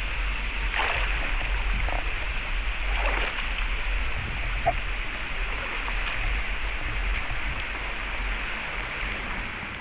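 Steady rush of a flowing stream, with a few faint brief sounds on top.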